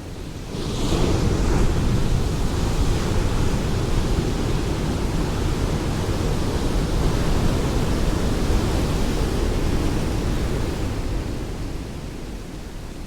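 Ocean waves breaking on a shore: a wave comes in with a hiss about half a second in, its surf rushes steadily for about ten seconds, then eases off near the end.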